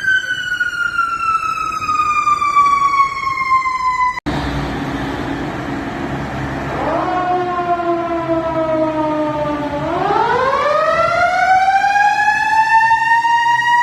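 Fire truck sirens wailing. The first slowly falls in pitch and cuts off abruptly about four seconds in. A second siren then comes in low over engine rumble, dips, and rises in a long slow climb near the end.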